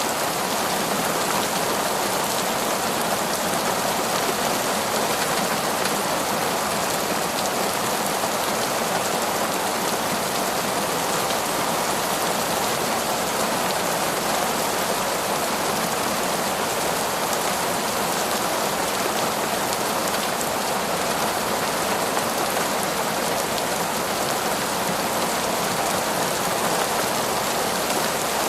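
Heavy rain falling steadily, a dense even hiss of drops without pause or change.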